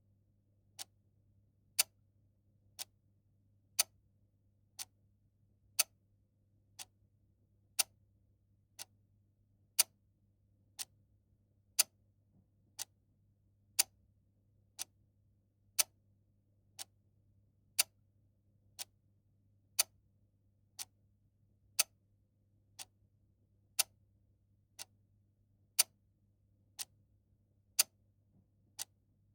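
A clock ticking steadily, about one tick a second, the strokes alternating louder and softer in a tick-tock pattern, over a faint low hum.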